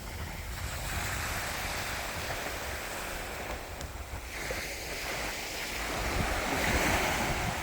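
Small Mediterranean waves breaking and washing up the beach, swelling twice, with wind buffeting the microphone.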